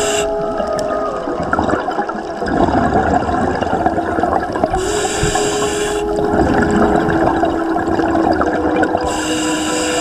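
A scuba diver breathing through a regulator underwater: a hissing breath about every four to five seconds, three in all, over a continuous bubbling noise and a few steady low held tones.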